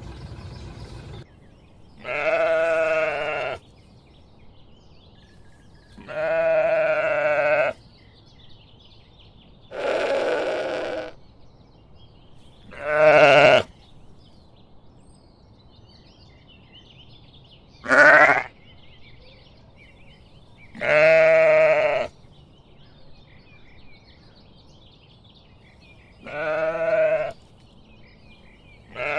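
Sheep bleating: about seven separate wavering baas, each a second or two long, a few seconds apart.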